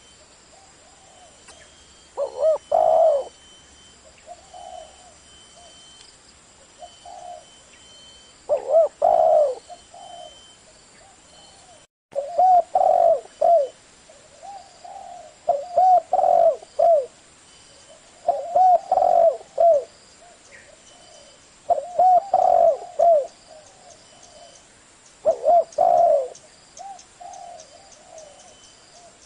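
Spotted dove cooing in the deep 'thổ' voice prized by Vietnamese dove keepers: loud phrases of low hooting coos repeated every few seconds. There is a brief dropout to silence about twelve seconds in.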